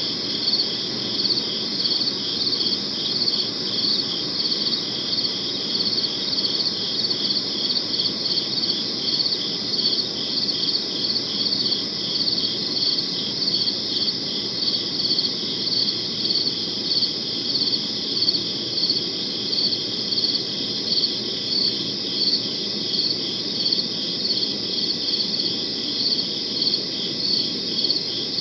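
Crickets chirping steadily, a high pulsing trill that swells in an even rhythm, about one and a half pulses a second, over a faint low background hiss.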